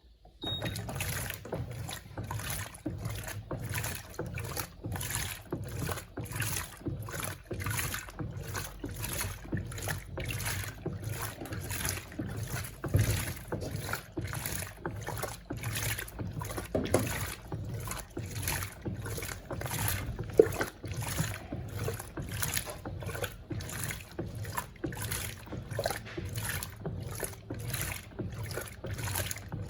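Electrolux Turbo Compacta LTC07 top-loading washing machine starting to agitate about half a second in: a steady motor hum under a regular swish of water and clothes, somewhat under two strokes a second, as the agitator churns the load in the rinse water.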